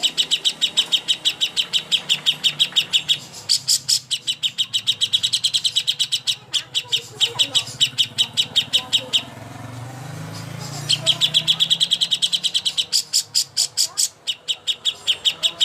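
Songbird on a masteran training recording making a long, rapid chattering run of high chirps, about six a second. It breaks off for about a second and a half past the middle, then starts again.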